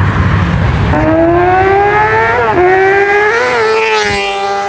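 A car engine accelerating away, its pitch climbing steadily, with a brief dip about halfway through as it shifts gear, then holding a steady pitch near the end.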